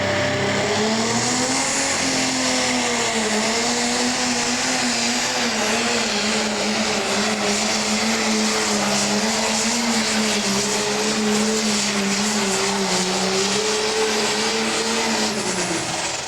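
Pro stock pulling tractor's turbocharged diesel engine run flat out under load during a 10,000 lb class pull. The pitch holds high with slight wavering, then drops off at the very end as the pull finishes.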